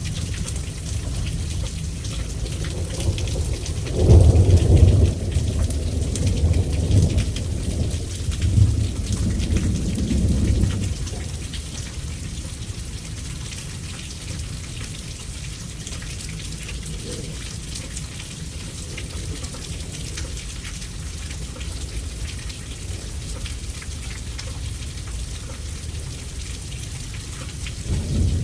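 Steady rain on a surface, with a peal of thunder about four seconds in that rumbles on for several seconds before dying away; another rumble of thunder starts at the very end.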